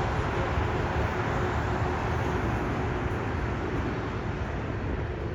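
Jet airliner engine noise, a steady rush with a faint steady hum, easing slightly toward the end.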